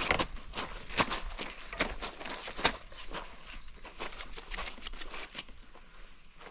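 Footsteps: a firm step about once a second for the first few seconds, then lighter, quicker scuffs.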